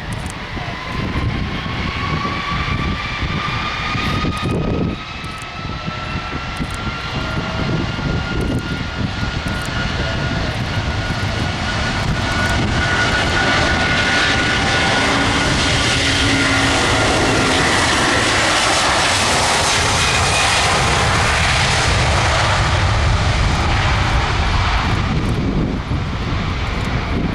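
Airbus A330 MRTT Voyager's twin Rolls-Royce Trent 700 turbofans on takeoff. A whine climbs in pitch as the engines spool up, then a loud steady jet rush builds through the middle and drops off a few seconds before the end.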